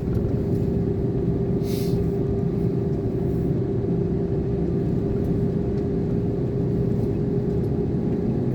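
Iveco concrete mixer lorry's diesel engine running steadily at low speed, heard from the cab as a constant drone with a held tone. A brief hiss comes about two seconds in.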